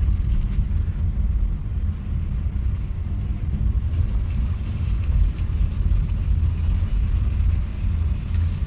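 A vehicle driving steadily along a road: a constant low rumble of engine and road noise, with no changes or distinct events.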